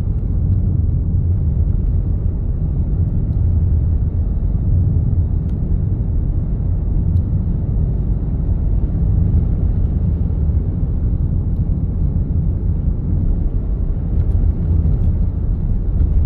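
Steady low rumble of a vehicle driving on the road: engine and tyre noise running evenly, with no distinct events.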